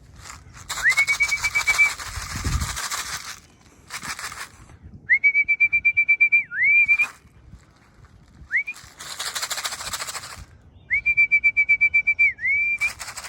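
A whistle blown four times to call racing pigeons down into the loft, each blast rising into a steady, trilling note. Between the blasts come bursts of rapid wing flapping from the pigeons.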